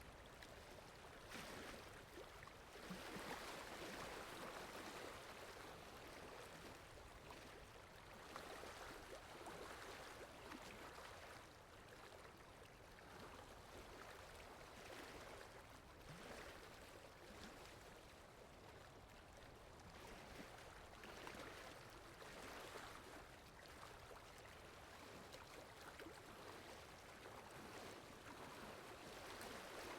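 Faint rushing water of a rainy-forest ambience: a soft, even hiss that swells and eases every few seconds, with no music heard.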